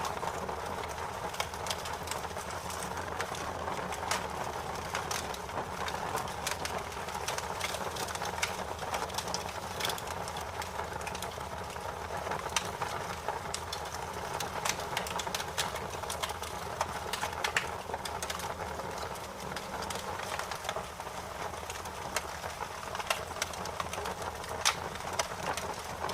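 Bonfire of burning wood crackling: a steady hiss with frequent sharp pops and snaps.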